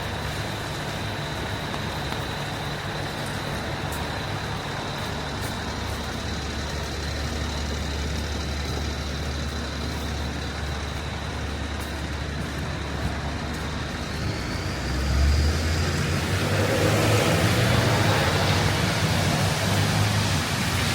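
City street traffic with a heavy vehicle's engine running close by: a steady low hum under a thin high whine that rises a little about 14 seconds in. A second or so later the traffic gets louder and noisier as vehicles move past.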